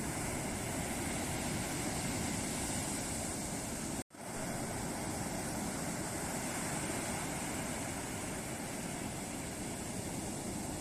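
Ocean surf breaking and washing on a beach, a steady rush of water noise. It cuts out to silence for an instant about four seconds in, then carries on.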